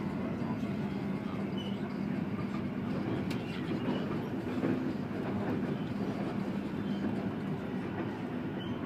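Passenger train running, heard from inside the carriage: a steady rumble of the wheels on the rails with a constant low hum.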